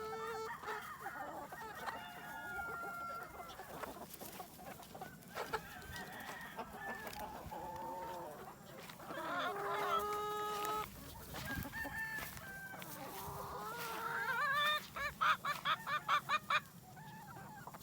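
Free-range chickens: roosters crowing with long held notes, and hens clucking around them. Near the end a hen gives a loud, rapid run of squawks.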